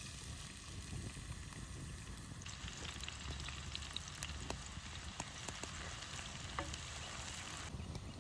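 Food frying in a pan over a wood fire: a steady sizzle with scattered small crackles. The sizzle grows stronger and brighter from about two and a half seconds in, then eases just before the end.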